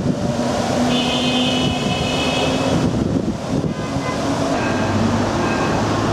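Rail vehicle running, a steady rumble and rattle of the ride, with a high whine joining for about two seconds from a second in.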